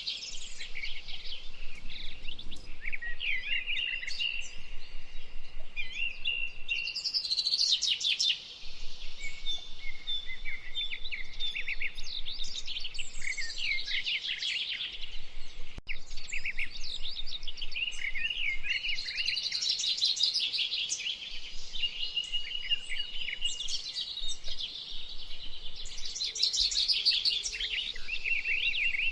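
Several songbirds singing and calling at once, a dense chorus of overlapping trills, warbles and chirps that goes on without a break.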